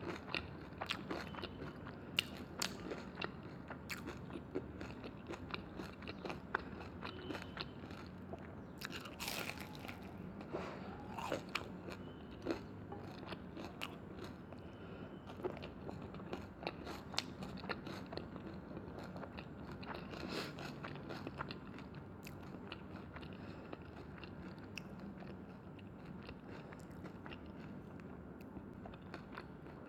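Close-miked eating sounds: crisp, crunchy bites and chewing of crunchy food, with one louder crunch about nine seconds in.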